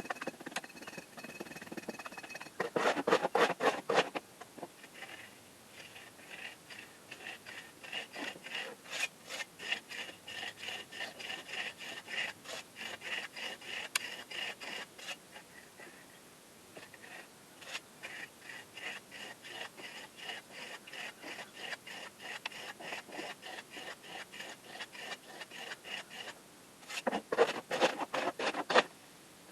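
Repeated rasping scraping strokes, a few a second. They pause briefly midway and are louder for about a second and a half early on and again near the end.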